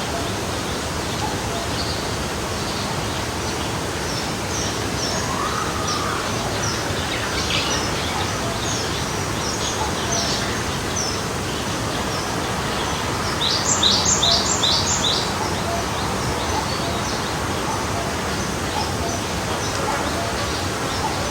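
Forest stream flowing steadily, with small birds chirping over the rushing water. A little past the middle a bird gives a quick run of about five loud, high chirps.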